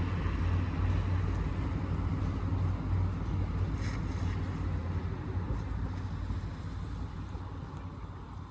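Outdoor road traffic: a steady low rumble of passing cars with a hiss over it, fading out near the end.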